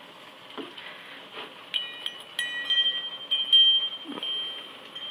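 Wind chimes ringing lightly. A few high metallic tones are struck several times from a little under two seconds in and ring on.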